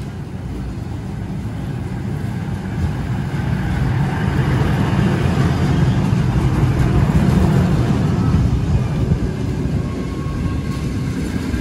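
Electric locomotive hauling a passenger train rolling slowly into the station: a low rumble of wheels on rail that builds as the locomotive draws level about halfway through, then carries on as the coaches roll past.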